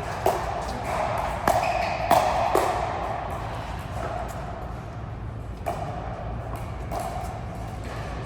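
A racket-sport rally: sharp hits of ball and racket, about half a second to a second apart, each ringing briefly in a large hall. The hits are loudest in the first few seconds and come more sparsely later.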